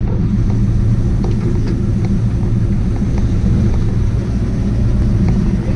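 1965 Chevelle's LS V8 engine idling steadily while the car sits still, heard from inside the cabin as a loud, deep rumble.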